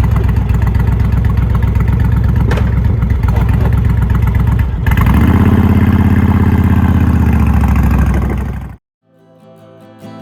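Honda Stateline's V-twin engine running under way. About halfway through, the engine note changes and slowly falls in pitch, then cuts off abruptly near the end. Quiet acoustic guitar music follows.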